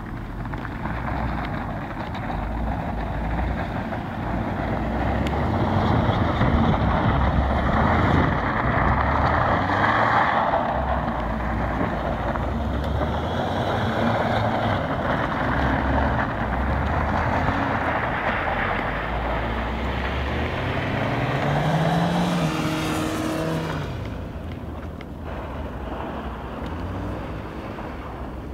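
Audi A3 turbo quattro's engine running under throttle as the car slides on snow, with a steady rushing noise of tyres and snow. Near the end the engine note rises and falls clearly, then the sound fades as the car moves away.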